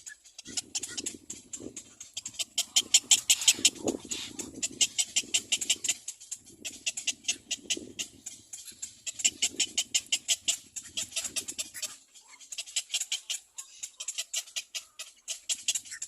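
A little black cormorant chick calling: a rapid string of high, squeaky pulses, about eight to ten a second, coming in runs of a few seconds with short breaks.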